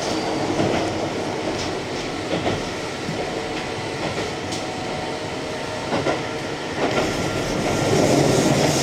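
Keihan electric train running, heard from inside the car: a steady running noise with irregular clicks of the wheels over rail joints.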